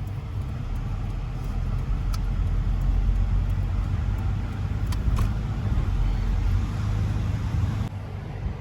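Truck engine and road noise heard from inside the cab while driving: a steady low rumble that grows a little louder about a second in and eases off near the end, with a few faint clicks.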